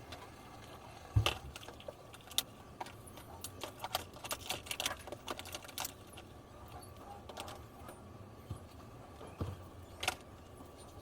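Camping gear being handled and packed: irregular clicks, knocks and light clattering of hard items, with one heavier thump about a second in and a busier run of clatter in the middle.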